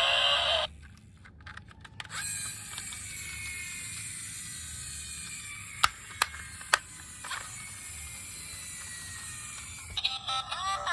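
Plastic toy cars being handled: a rising toy-motor whir cuts off just under a second in, then a few sharp clicks, with three close together around the middle, over a steady faint hiss.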